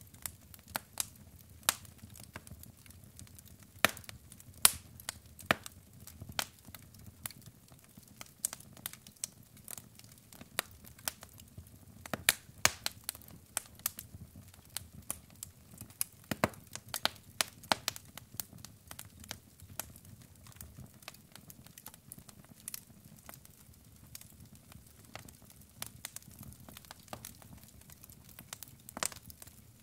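Logs burning in a fireplace, crackling with frequent, irregular sharp pops over a soft, steady low rush of the flames.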